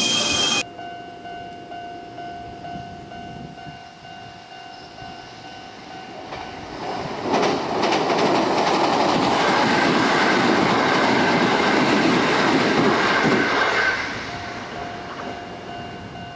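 A Sanyo Electric Railway commuter train passes over a steel railway bridge, its wheels running loudly on the rails from about seven seconds in. The noise holds for about seven seconds, then fades as the train moves away.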